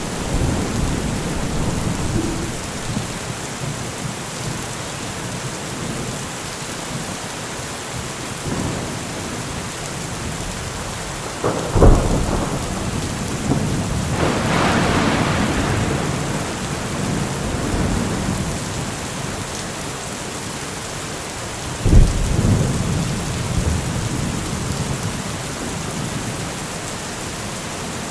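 Steady rain with thunder: two sharp thunderclaps, about twelve and twenty-two seconds in, each trailing off into a rolling rumble.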